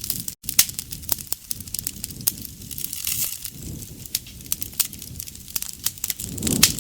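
Campfire burning, with frequent sharp crackles and pops from the burning wood over a low, swelling rush of flame. The sound cuts out for an instant less than half a second in.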